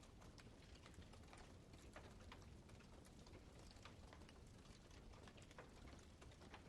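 Wood campfire crackling faintly: irregular small crackles and pops, several a second, over a low steady background.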